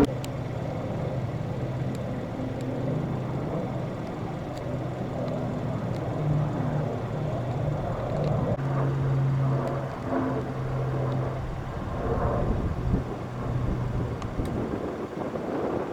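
Engines running: a low steady hum that fades in and out over outdoor background noise.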